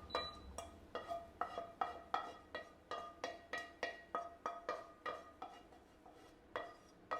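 Soft background music of short plucked string notes, about three or four a second, pausing briefly near the end.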